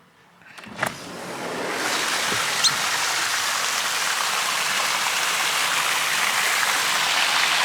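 A click, then a steady, even hiss that builds up over about a second and holds, like rain or rushing water.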